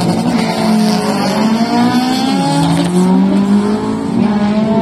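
Drag-racing car engine at full throttle, accelerating hard through the gears: its pitch climbs steadily and drops at upshifts about two and a half seconds in and near the end.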